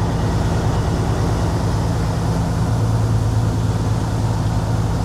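Kenworth W900 semi truck's engine drone and road noise heard from inside the cab while driving, with a low hum that grows stronger about halfway through.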